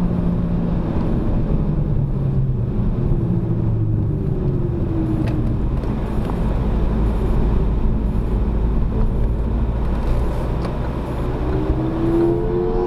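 Renault Mégane RS250's turbocharged 2.0-litre four-cylinder engine and tyre noise, heard from inside the cabin while lapping a track. The engine note falls early on, settles into a low rumble through the middle, and climbs again near the end as the car accelerates.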